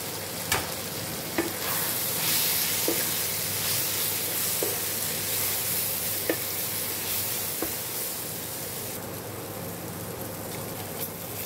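Sliced onions and tomatoes with spice powders sizzling in a nonstick kadai as they are stirred, with a few light knocks of the stirring utensil against the pan. The sizzle grows louder about two seconds in and eases off near the end.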